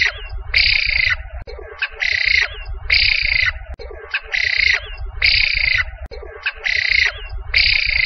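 A bird calling over and over, about once a second, each call about half a second long with a short note just before it. A low rumble runs underneath.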